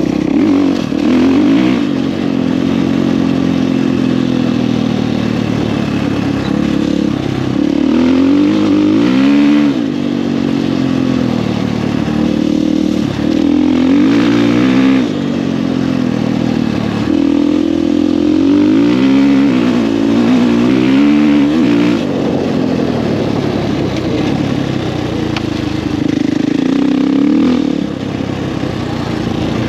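2020 Husqvarna FE 450 single-cylinder four-stroke dirt bike with an FMF 4.1 exhaust being ridden under throttle, its engine note rising and falling again and again as it revs up and backs off every few seconds.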